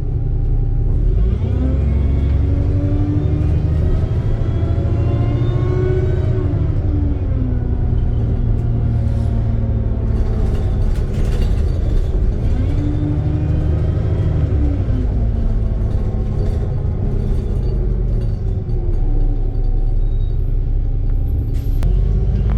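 ADL Trident II Enviro 400 double-deck bus engine and driveline heard from on board, a low rumble with a tonal whine whose pitch rises and falls several times as the bus accelerates and eases off.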